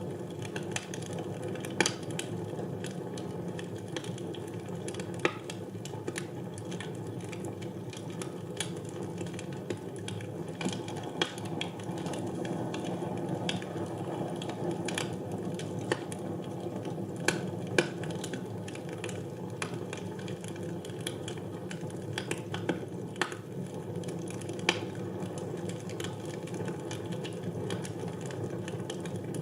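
Wood fire burning in a fireplace: a steady low rustle of flames with sharp crackles and pops at irregular moments.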